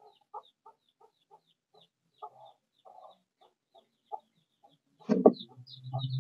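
Faint bird calls: short calls repeating about three times a second, with a louder, lower sound about five seconds in.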